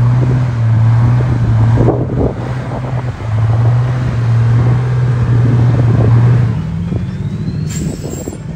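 Four-wheel-drive vehicle's engine running hard at steady revs, a loud low drone that breaks briefly twice and eases off about six and a half seconds in.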